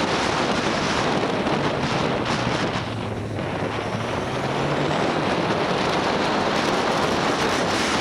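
Wind rushing over the microphone of a camera on a moving motorbike, with the bike's engine running as a low hum underneath. The rush dips briefly about three seconds in.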